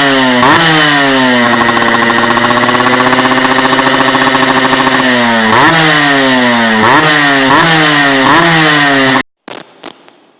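Yamaha RX-King's two-stroke single-cylinder engine running through an aftermarket stainless 'Kolong Cobra' exhaust. It is revved in a series of sharp throttle blips, held at a steady rev for about three seconds, then blipped again. The sound cuts off abruptly near the end.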